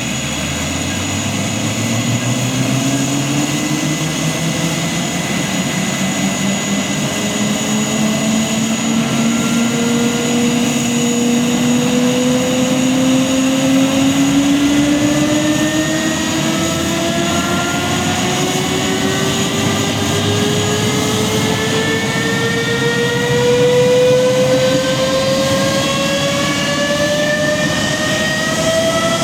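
BAC One-Eleven's Rolls-Royce Spey turbofan spooling up during engine start: a loud whine climbing slowly and steadily in pitch, over a steady high-pitched whistle and hiss.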